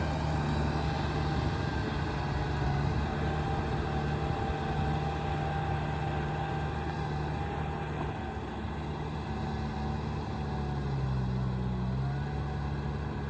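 Heavy diesel engine of earthmoving machinery running steadily, its pitch shifting slightly near the end.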